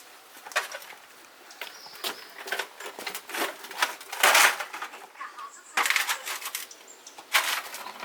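Irregular clatter of hand work on metal parts: a string of short knocks and scrapes, the loudest about four seconds in.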